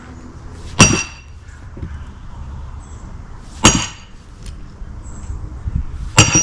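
Sledgehammer striking a steel splitting wedge driven into an oak round: three separate blows about three seconds apart, each a sharp metallic clank with a brief ring.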